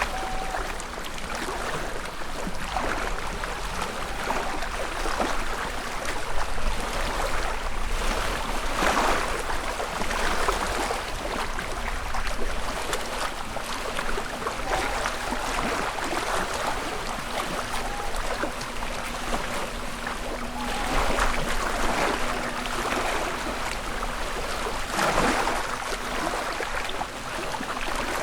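Small lake waves lapping on the shore, a steady wash that swells into louder splashes several times.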